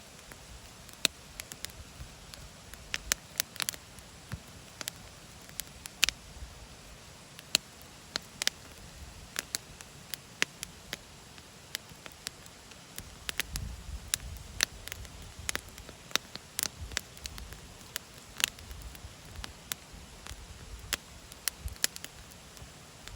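Wood fire crackling in a Picogrill 936 folding fire pit: irregular sharp pops and snaps, a few stronger than the rest, over a faint steady hiss.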